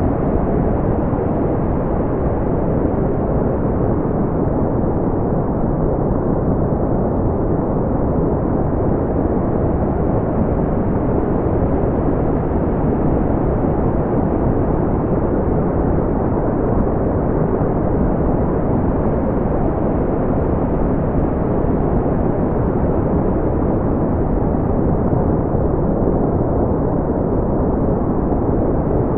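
Steady, deep brown noise: a continuous low rumbling hiss with most of its energy in the bass, softened and rolled off in the highs.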